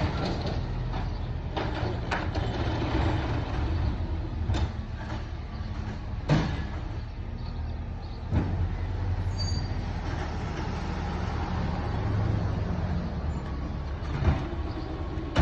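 Refuse truck's diesel engine running steadily at a low rumble, with several sharp clanks and knocks from the truck's body and equipment scattered through.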